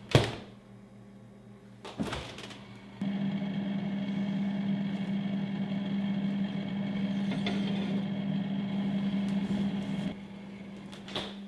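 A kitchen appliance running with a steady electrical hum for about seven seconds, stopping abruptly, between a sharp knock at the start, another knock about two seconds in, and a click near the end.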